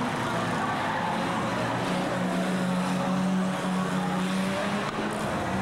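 Banger-racing cars' engines running hard on the track, a steady engine drone over broad track noise that gets louder for a couple of seconds midway.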